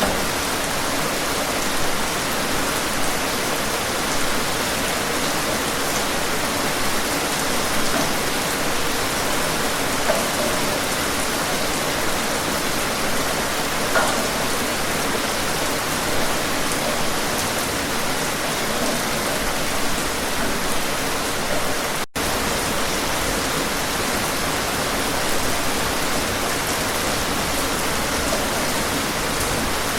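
Steady rain falling, an even hiss with a few distinct drops landing now and then. About two-thirds of the way in the sound drops out for a split second.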